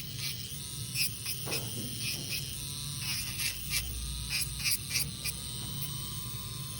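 Electric manicure nail drill running with a steady high whine and hum, with many short scratchy ticks, typical of the bit working over a nail to take off gel polish.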